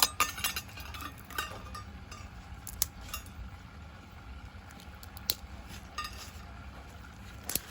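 Scattered light clicks and knocks of small hard objects being handled and set down, about eight over several seconds, over a low steady background hum.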